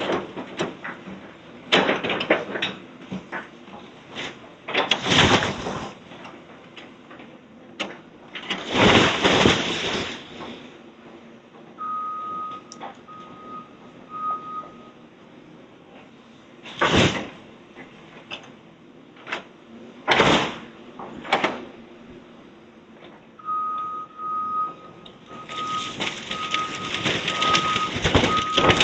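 Demolition debris crashing and scraping in a series of loud separate bursts as a house is torn down, with a heavy machine's backup alarm beeping at an even rate in two runs, the second starting about two-thirds of the way in.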